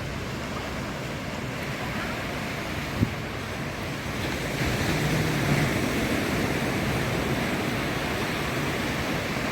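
Ocean surf washing onto a sandy beach as a steady rush, swelling louder about four and a half seconds in as a wave breaks. A single sharp click about three seconds in.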